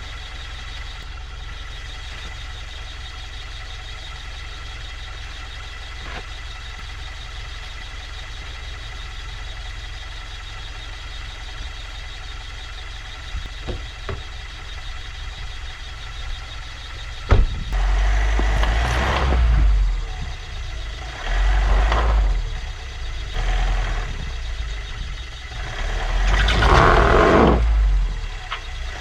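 A vehicle engine running steadily at a low level. Then, after a sharp click, four loud surges of rushing noise, each lasting one to three seconds.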